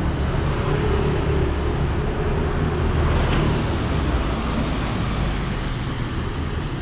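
Street traffic running steadily, a continuous rumble of passing vehicles.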